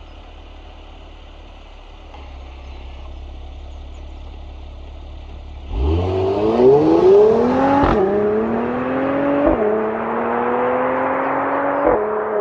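Mercedes-AMG GLC 43 exhaust idling with a low steady hum, then accelerating hard about six seconds in. The engine note climbs and drops back three times as the transmission shifts up.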